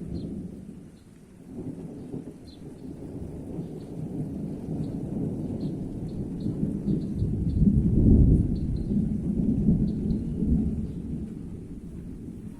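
Rolling thunder rumbles low during a rainstorm. It builds to its loudest about eight seconds in, then dies away toward the end.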